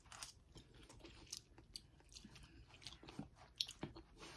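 Faint chewing: a person bites into a forkful of green beans and chews, with soft, irregular mouth clicks throughout.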